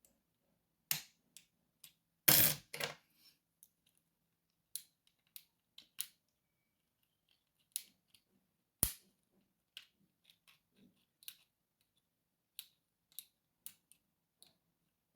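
Small metal clicks and taps of lock picking, the pick and tension tool working in a lock, spaced irregularly. There is a louder rattling cluster about two seconds in and a single sharp click near nine seconds.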